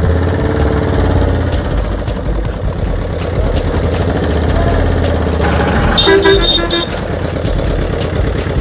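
A vehicle engine running steadily with a low rumble. About six seconds in, a horn gives a quick run of about four short beeps.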